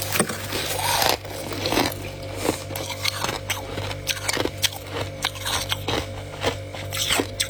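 Frost being scooped up by hand and bitten, with irregular sharp crunches and crackles, denser scraping in about the first second. A steady low hum runs underneath.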